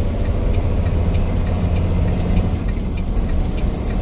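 Steady low drone of a big-rig truck's diesel engine and road noise while driving, heard from inside the cab.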